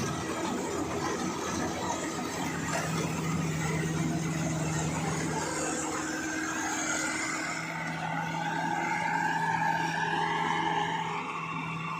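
Engine of a rice harvesting machine running with a steady hum, joined in the second half by a whine that slowly rises in pitch.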